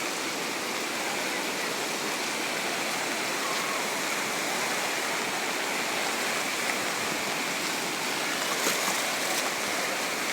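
Rain-swollen river rushing steadily as floodwater after heavy rain.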